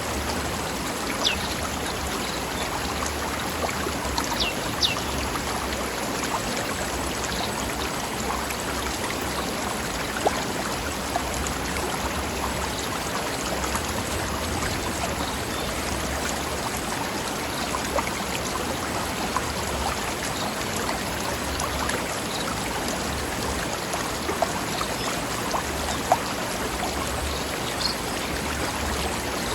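Forest stream flowing over rocks: a steady rush of running water with small splashes throughout. A few brief high chirps, likely birds, come about a second in, around four to five seconds in, and near the end.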